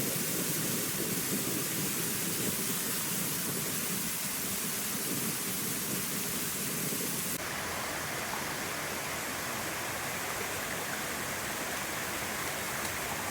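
Waterfall: a steady rush of falling water. About seven seconds in the sound changes abruptly to a thinner rush with less low rumble.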